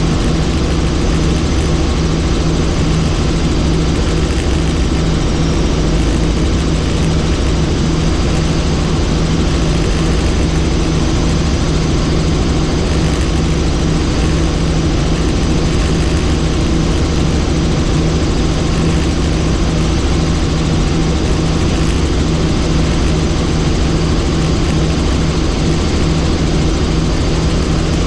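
Helicopter in flight: steady, loud engine and rotor noise with a constant low hum, unchanging throughout.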